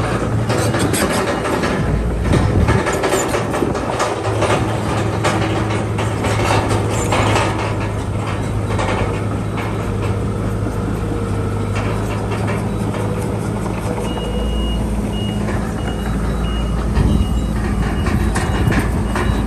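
Crawler bulldozer's diesel engine running under load, its steel tracks clanking and rattling. A reversing alarm beeps steadily from a little past the middle.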